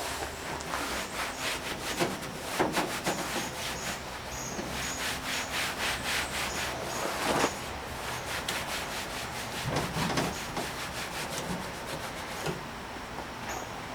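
Rapid back-and-forth rubbing strokes, a few a second, on the old painted body panel of a 1959 VW single cab truck, cleaning the paint to bring out its patina. The strokes stop near the end.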